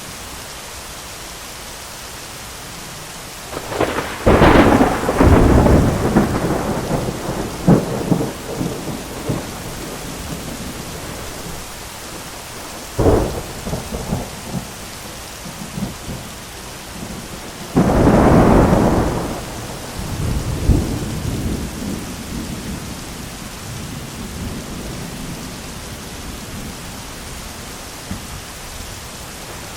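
Steady heavy rain with thunder: a loud crack of thunder about four seconds in rumbling on for several seconds, a shorter crack near the middle, and another loud crash with a long rumble a little later.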